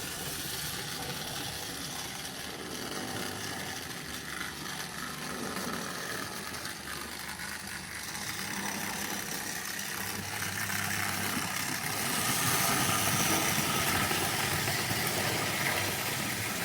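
Two TRIX Express model tender locomotives running with a train of coaches: electric motor hum and a steady rattle of wheels on metal track, louder from about twelve seconds in.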